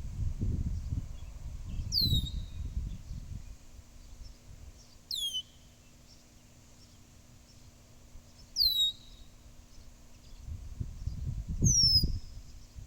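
A blackbird giving four short, high whistled calls that fall in pitch, about three seconds apart. A low rumbling noise sits under the calls at the start and again near the end.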